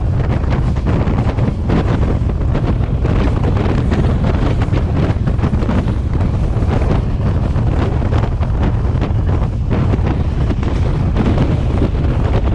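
Wind buffeting the camera microphone on a moving Class S13 diesel multiple unit, over the train's steady low rumble.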